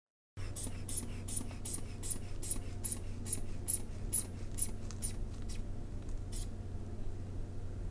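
Sphygmomanometer hand bulb squeezed quickly to inflate the cuff, each squeeze giving a short scratchy hiss of air through the bulb valve, about two to three a second. The squeezes stop about five and a half seconds in, with one more soon after, over a steady low hum.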